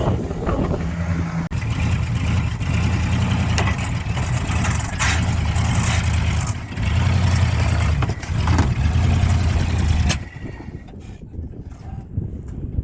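1979 Dodge Power Wagon's engine revving in repeated surges as the truck is driven at the car. About ten seconds in the engine sound drops away sharply, leaving quieter noise.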